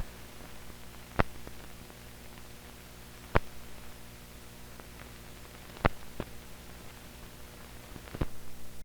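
Blank optical soundtrack of old newsreel film: steady mains hum and hiss, broken by a few sharp pops about every two seconds and a short burst of crackle near the end.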